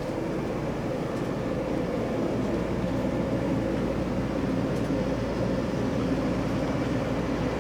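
Steady mechanical drone of machinery running inside the motorhome, unchanging throughout, with no distinct knocks or changes.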